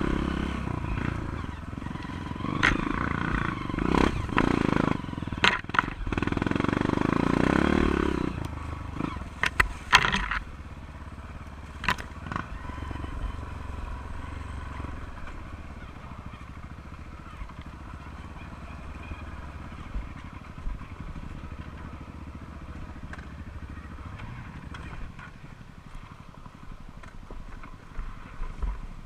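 Honda CRF230 single-cylinder four-stroke dirt bike engine running hard for the first several seconds, with a few sharp knocks and clatter, then dropping to a quieter, low steady running for the rest.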